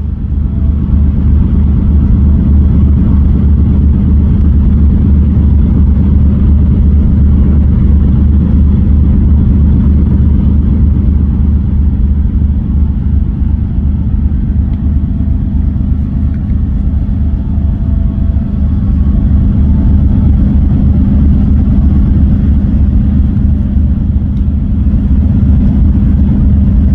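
A large engine running steadily: a loud, even low drone with a constant hum that does not change for the whole time.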